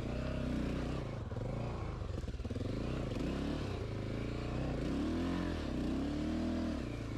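Honda XR600R's single-cylinder four-stroke engine revved up and down again and again under hard load, as the dirt bike is worked to climb out of a creek bed.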